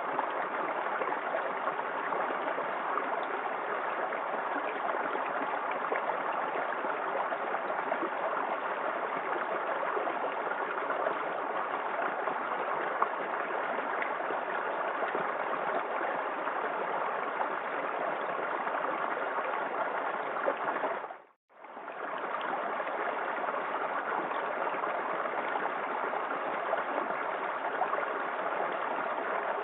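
Small woodland waterfall in a creek: a steady, even rush of falling water. About two-thirds of the way through it fades out for a moment and comes straight back.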